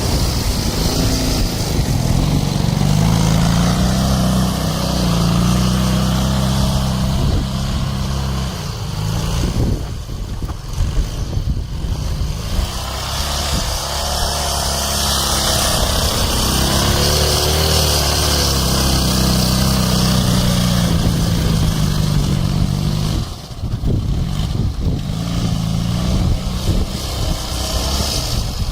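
Ural motorcycle's flat-twin engine running and being revved: the revs climb and hold for several seconds, drop back about ten seconds in, then climb and hold again before falling away near the end.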